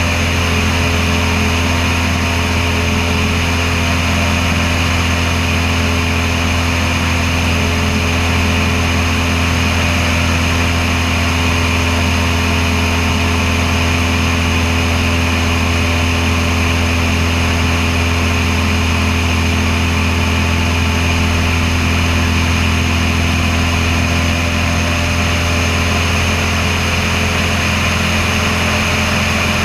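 Cessna 172's piston engine and propeller running at a steady speed, heard from a camera mounted outside on the wing: a loud, even drone with a strong low hum that does not change in pitch.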